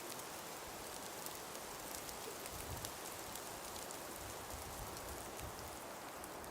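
Steady breeze hissing through a frost- and ice-covered forest, with many small light ticks and patters scattered throughout and a few brief low gusts in the middle.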